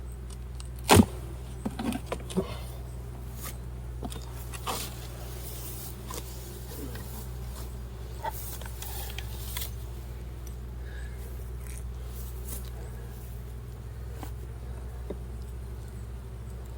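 Honey bees humming steadily around an open hive during an inspection, with scattered clicks and knocks from hive frames being handled, the loudest about a second in.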